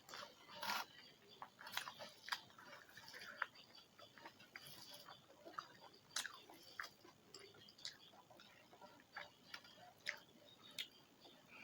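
A person chewing food close to the microphone: soft, irregular mouth clicks and wet smacks of uneven spacing.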